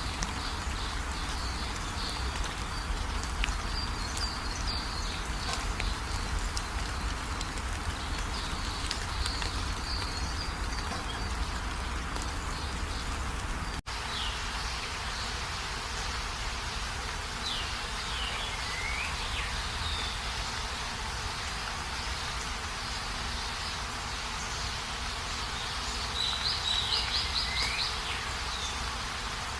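Steady rain falling, with high chirping over it. Birds call through it: a few falling calls about two-thirds of the way through and a quick trill near the end. The sound cuts out for an instant about halfway through.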